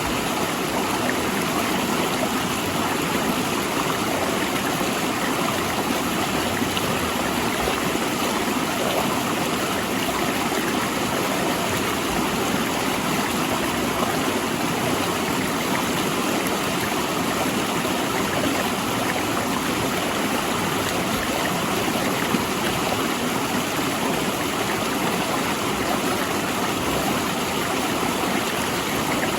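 River water rushing and splashing between large rocks, a steady even rush with no let-up.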